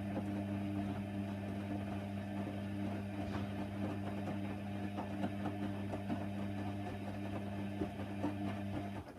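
Hoover Nextra washer dryer running mid-programme: a steady electric hum with light rattling and clicks. It cuts off suddenly near the end.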